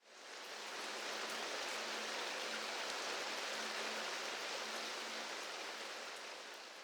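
Steady rain falling, a dense even patter, fading in over the first second and fading out near the end.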